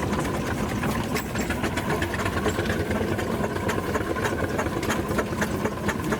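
An engine running steadily, with a rapid, irregular mechanical clatter of clicks over a low running tone.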